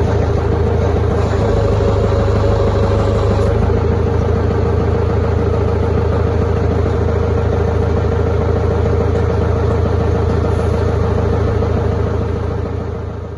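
Forklift engine running steadily while the tank's tracks are being tensioned, fading out near the end.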